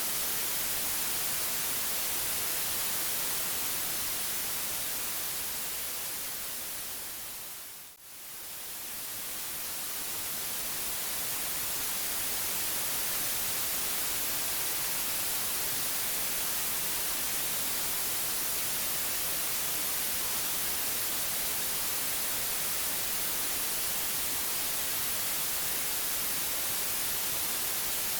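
Steady white noise hiss, strongest in the high register. About eight seconds in it fades down almost to silence and swells back up over a few seconds.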